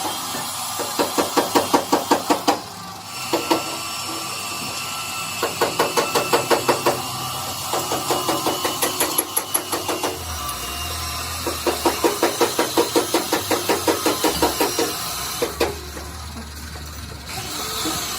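Metal being struck rapidly in repeated runs of quick blows, about six a second, over a steady workshop hum. The runs stop and restart four times.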